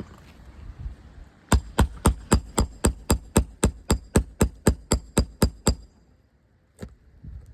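Hammer tapping lightly and quickly on an asphalt shingle, about sixteen even taps at roughly four a second, then one more tap about a second later. This is a condition check, tapping to loosen granules and show wind damage on the shingle.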